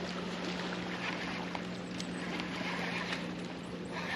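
A boat's motor humming steadily on one low note, with water and wind noise around it and a few faint clicks.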